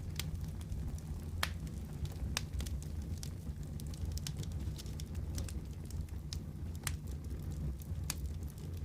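Crackling wood fire in a fireplace: irregular sharp pops and snaps, a few louder than the rest, over a steady low rumble.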